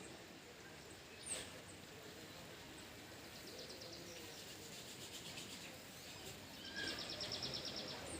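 Wild birds calling over a steady outdoor background hiss. There is one short, high downward chirp about a second in, a faint rapid trill a few seconds later, and a louder rapid, high trill near the end.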